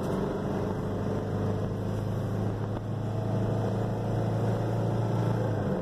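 A car's faulty engine, due to be replaced, droning at steady revs, heard from inside the cabin over road noise. The low drone drops off near the end.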